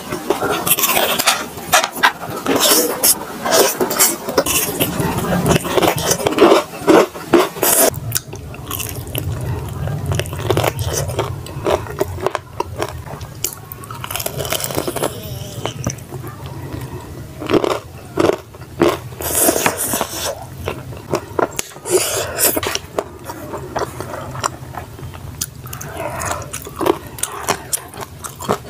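Close-miked eating: crunchy bites into crispy breaded fried chicken and chewing, made up of many short crunches.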